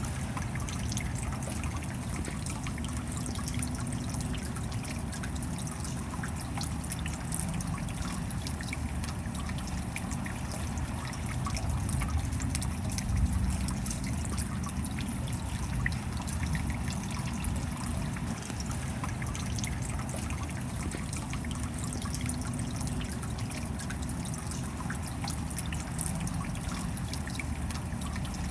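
Steady rain falling, with many small drops tapping and water trickling, and a low rumble beneath. The level swells slightly about halfway through.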